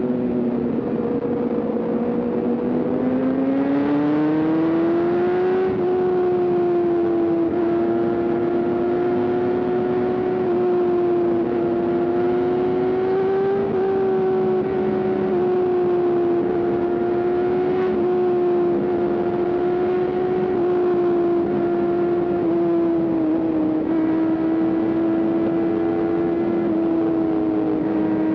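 Sport motorcycle engine pulling at steady high revs. Its pitch dips about a second in, rises over the next few seconds, then holds nearly level with small rises and falls.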